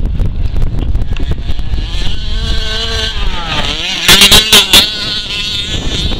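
Small two-stroke engine of an FG 4WD petrol RC monster truck running, its pitch rising and falling, with four short loud blasts of throttle about four seconds in.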